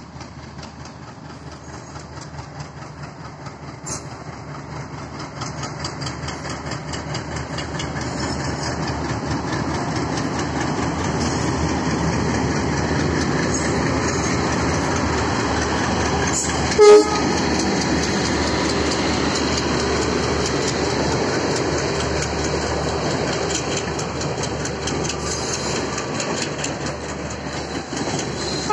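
Diesel-hauled passenger train approaching and passing close by: engine rumble and wheel noise grow louder over the first ten seconds, then the steady clatter of coaches rolling past. One short horn blast sounds about 17 seconds in.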